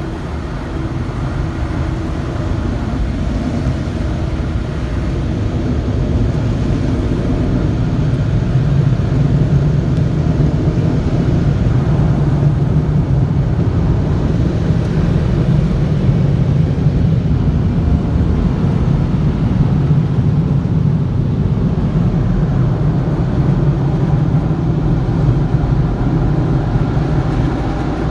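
Automatic car wash machinery heard from inside the car's cabin: a loud, steady rumble that builds over the first several seconds and holds.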